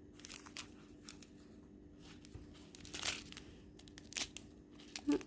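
Small plastic packets of diamond painting drills crinkling as they are handled, a few short faint crinkles with the loudest about three seconds in.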